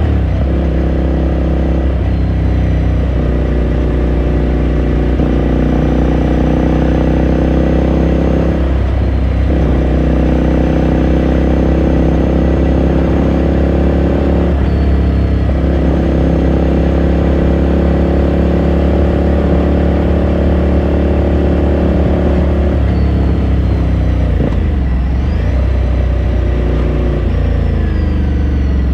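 2018 Ducati Scrambler Sixty2's air-cooled L-twin engine running under way, heard from onboard the motorcycle. Its pitch climbs slowly, with short breaks at gear changes about 9 and 15 seconds in, then the revs shift and fall near the end.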